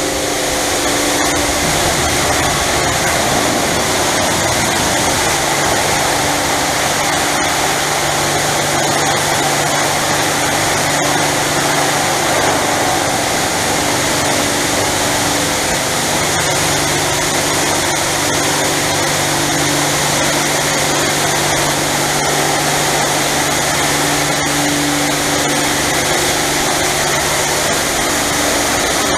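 Christ Varius brushless gantry car wash at work: a steady, loud hiss of high-pressure water spraying, with the even hum of the machine's pump and motors underneath.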